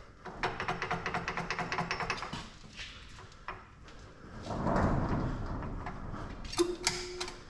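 A machine misbehaving as it is tried: rapid, even clicking, about nine a second, for roughly two seconds. A rushing noise then swells and fades in the middle, and a few knocks come near the end. The fault is unexplained, and the machine is not locked up and spins free.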